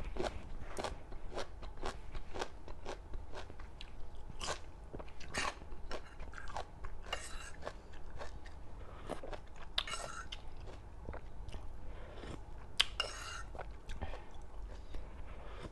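Close-miked chewing of a spicy seafood salad with crunchy raw vegetables: irregular crisp crunches, several a second, with a few louder bites.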